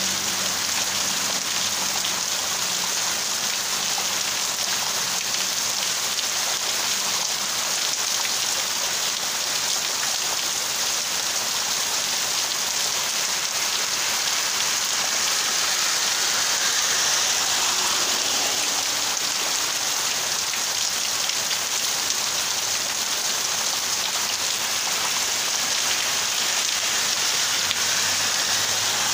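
Heavy rain pouring down steadily, a dense, even hiss of drops striking surfaces.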